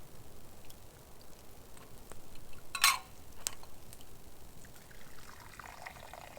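Liquid sounds: a short loud splash-like burst about three seconds in, a sharp click just after, and a longer pouring trickle near the end.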